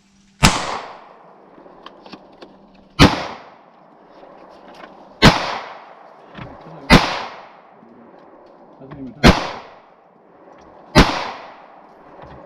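Gunshots: six shots fired one after another, roughly two seconds apart, each sharp crack followed by a short echoing tail, in target shooting at bottle caps.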